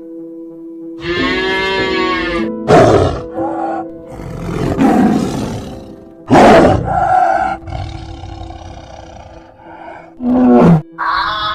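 A large wild animal roaring, a series of loud calls: a long one about a second in, then several short ones, over steady background music.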